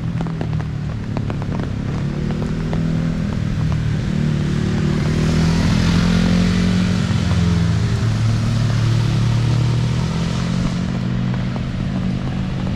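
A motor vehicle's engine runs close by with a steady low hum, while a hiss of tyres on the wet road swells and fades as traffic passes, loudest about halfway through. Rain sounds continue underneath.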